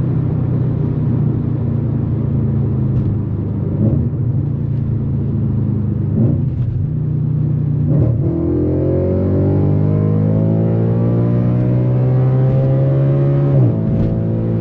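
Straight-piped Audi RS4 B8 4.2 FSI V8 running hard at speed. Its note holds fairly level with a few brief breaks, then climbs steadily from about halfway as the car pulls, with another short break near the end.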